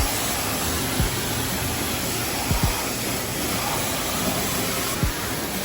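Self-serve car wash pressure wand spraying: a steady hiss of high-pressure water, with a few dull thumps from the phone being handled.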